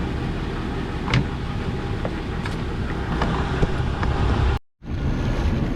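Steady low rumble of a small fishing boat's engine with wind on the water, with a few sharp clicks and a brief dropout to silence about four and a half seconds in.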